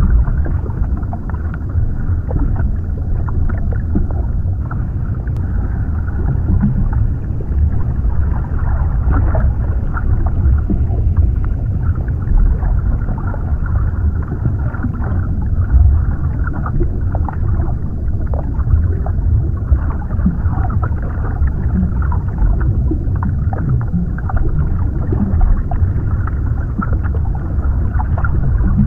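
Underwater ambience: a steady, muffled low rumble with many small crackles scattered through it, and almost nothing above the low and middle range.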